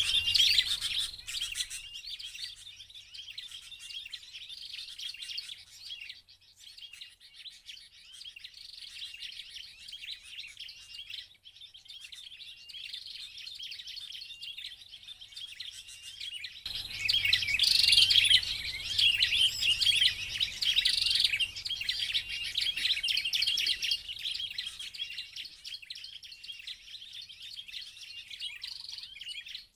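Ciblek (prinia) calls: rapid, high, thin chirping and twittering that goes on without a break. It grows much louder about 17 seconds in, with a low hum underneath.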